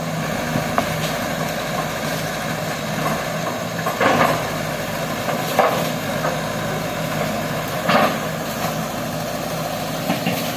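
Excavator's diesel engine running steadily, with a few short, louder noises in the second half.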